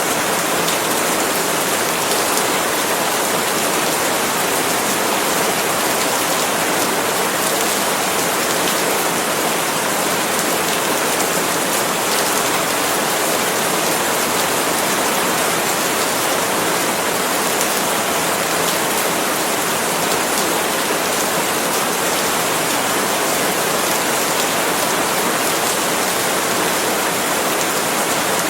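Steady, heavy rain falling on palm leaves, an even hiss of many drops with no let-up.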